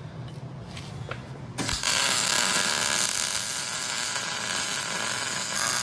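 A few faint clicks of tool work, then about one and a half seconds in a power tool's motor starts abruptly and runs with a loud, steady whirring hiss.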